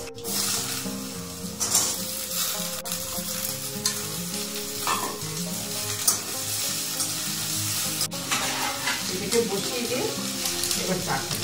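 Diced squash sizzling in hot oil in a metal wok, stirred and scraped with a wooden spatula, with a few sharp clicks of the utensils.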